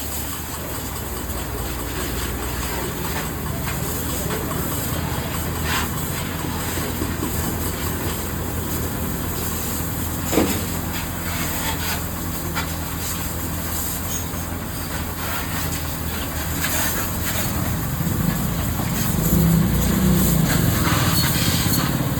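Pressure washer washing a motorcycle: the washer's motor runs with a steady hum under the hiss of the water spray. There is one sharp knock about halfway through, and the hum grows louder near the end.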